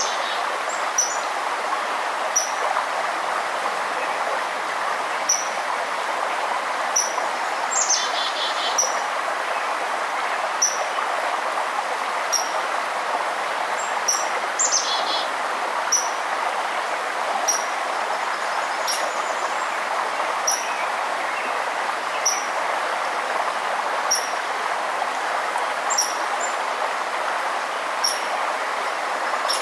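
A river's steady rush with birds: one bird repeats a short, high chirp about every second and a half, and a louder, longer call comes twice, about a third and a half of the way through.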